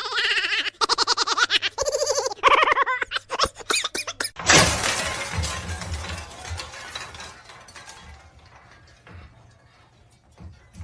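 About four seconds of music, then a sudden crash like something shattering, its noise dying away over the next few seconds.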